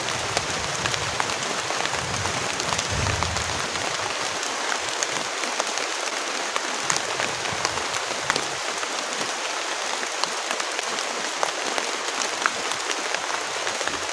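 Heavy rain falling steadily, a dense hiss with many sharp individual drop hits.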